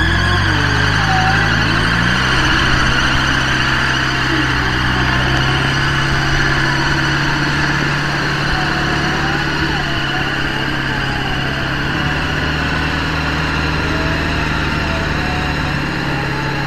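Off-road 4x4's engine running under load, its revs rising over the first couple of seconds and then held steady.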